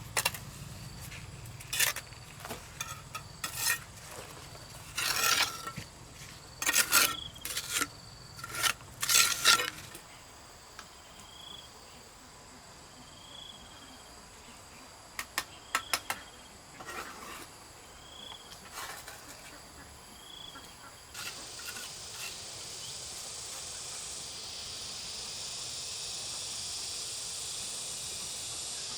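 Hand tools clinking and tapping with a sharp metallic ring, in irregular clusters over the first ten seconds and a few more later, typical of work on a building site. Short chirps recur in the background, and from about twenty seconds a steady high insect drone swells up.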